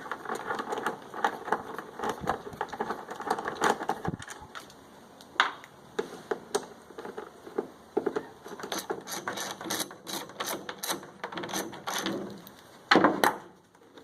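Screws being backed out of a portable generator's plastic side cover: bursts of rapid clicking and small rattles from the tool and housing, with a louder clatter near the end.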